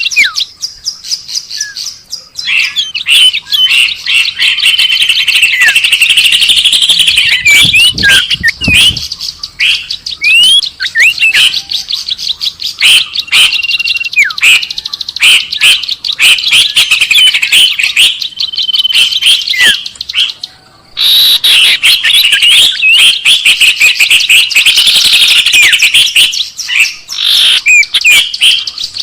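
Recorded birdsong played as a bird lure: dense, rapid high-pitched chirping and twittering with short whistled slurs. There is a brief low rumble about eight seconds in, and a short pause about two-thirds of the way through.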